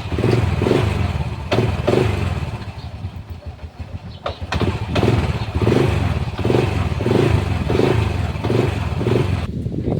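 Motorcycle engine running, its sound swelling and dropping back in a rhythm of roughly once a second, with a few sharp clicks and knocks.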